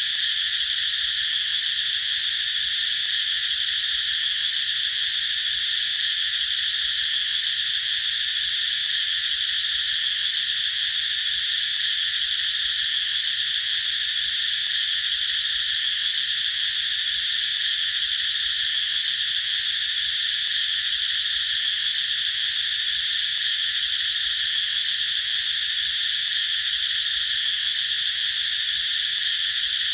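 Cicadas singing in chorus: a steady, unbroken high-pitched drone that does not change.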